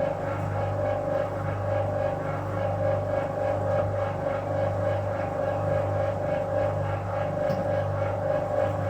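1966 Bendix LA automatic washing machine running its wash: a steady motor hum with a faint, even pulsing as the stainless steel drum turns.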